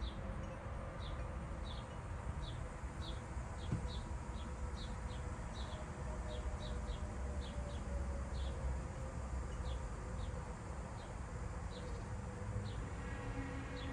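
Hummingbirds: short high chip notes repeating irregularly, about two a second, over a low steady hum.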